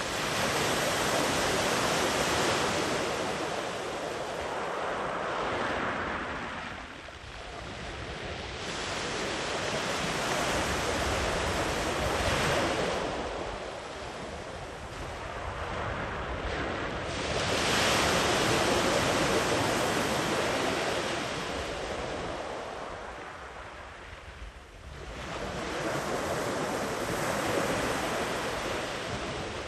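Ocean waves breaking and washing up a sandy beach, the surf swelling and easing about four times, with some wind rumble on the microphone.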